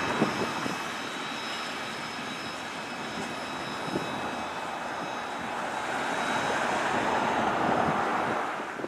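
Freight train's covered hopper cars rolling past on the rails: a steady rush of wheel noise with a few clunks, dipping in the middle and swelling again near the end.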